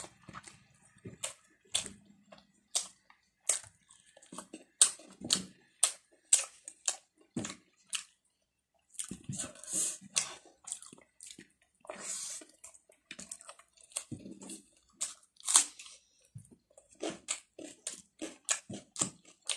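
Wet chewing and lip-smacking of a person eating a mouthful of rice and curry by hand: many quick, sharp mouth clicks, with a few short hissing sounds in between.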